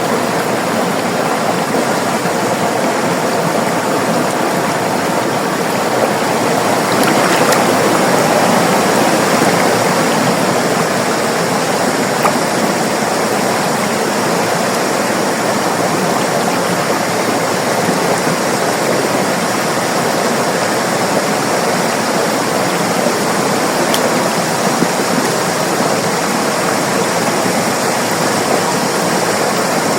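River water rushing steadily over rocks, a continuous loud flow that swells slightly about a quarter of the way in.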